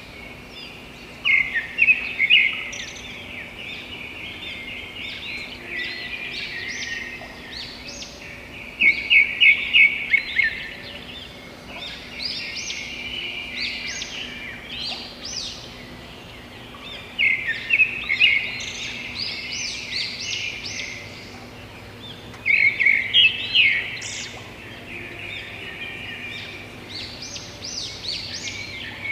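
Several birds chirping and calling together, with loud bouts of quick repeated notes lasting a second or two, returning about every six to eight seconds over a steady background of smaller chirps.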